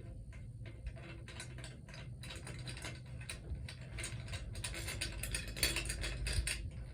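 Ratchet wrench clicking in quick runs while loosening the cylinder head bolts on a small engine, with light clinks of tools and metal.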